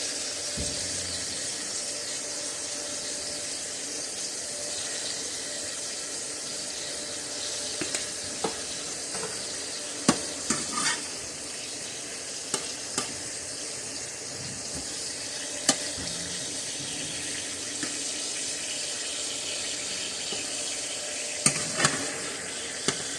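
Steaks sizzling in a frying pan, a steady hiss, with a dozen or so light clicks and taps scattered through it.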